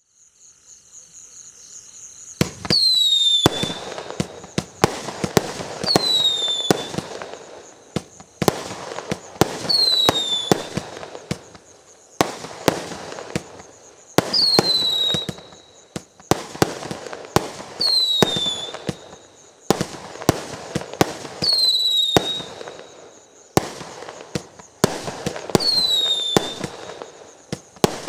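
A 49-shot 15 mm (0.6-inch) fireworks cake firing. After a hiss that builds over the first two seconds, it goes off in repeated volleys about every four seconds. Each volley opens with a short whistle falling in pitch, followed by a string of sharp launch and burst cracks.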